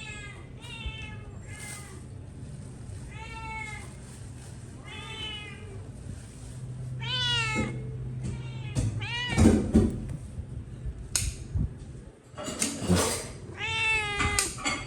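Cats meowing over and over: a string of high meows, each rising and falling, with a scuffle about halfway through and calls crowding together near the end.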